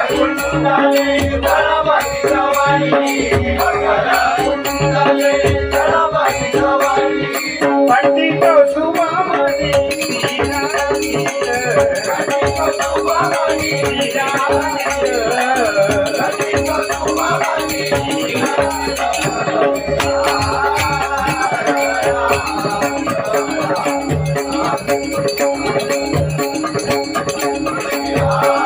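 Traditional bhajan music without words: a held drone under a moving melody line, with regular drum strokes and steady jingling percussion.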